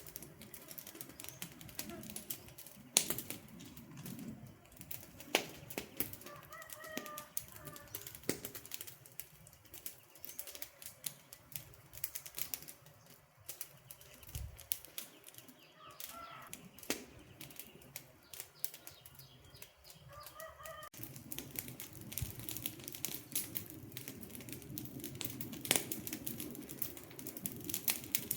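Wood campfire crackling, with frequent sharp snaps and pops over a low, steady rush of burning. A short bird call cuts through four times.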